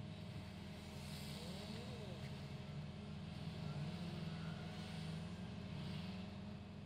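Car engine idling, heard from inside the cabin as a steady low hum, while other traffic passes outside.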